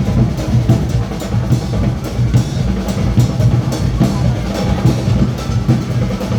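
Carnival music with steady, driving drumming and a strong bass.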